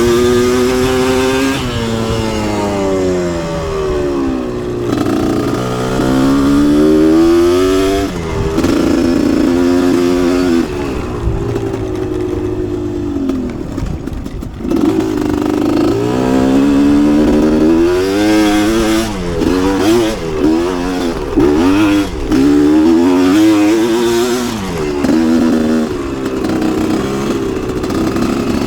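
Two-stroke dirt bike engine revving up and down repeatedly while being ridden, its pitch climbing and falling with each open and close of the throttle. About halfway through it drops briefly, and near the end there are several quick blips.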